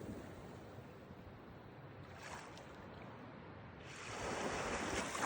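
Sea water rushing and splashing with some wind, swelling briefly about two seconds in and again, louder, from about four seconds in.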